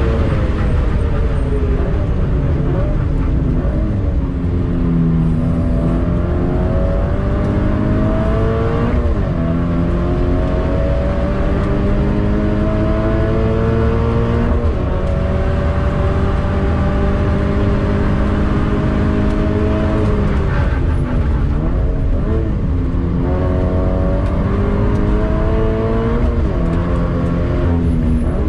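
Toyota GT86's stock 2.0-litre flat-four with a Tomei titanium cat-back exhaust, heard from inside the cabin under hard track driving. The engine note climbs in pitch under throttle and drops sharply at each gear change, several times over. Near the middle of the later part the pitch falls and jumps about under braking and shifting.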